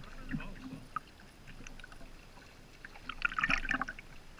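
Kayak paddle working the water: scattered drips and small splashes off the blade, with a louder splash from a paddle stroke a little over three seconds in.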